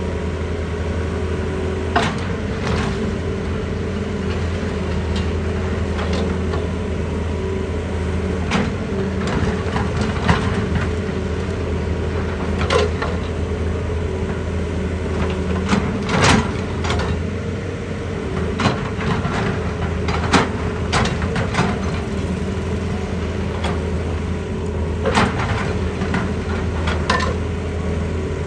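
Excavator's diesel engine running steadily as a low hum, with irregular sharp knocks and clanks scattered throughout.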